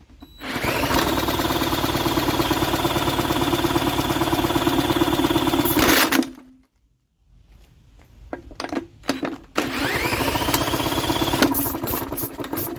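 A drill cranking a Briggs & Stratton 3.5 hp lawn mower engine primed with starting fluid: the drill whines up in pitch and the engine turns over with a steady rhythmic chug for about five seconds, stops, and after a pause is cranked again for about two seconds.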